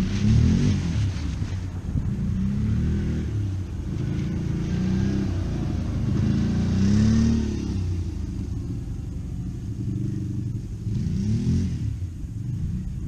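A vehicle engine running and revving up and down several times, its pitch rising and falling in repeated swells.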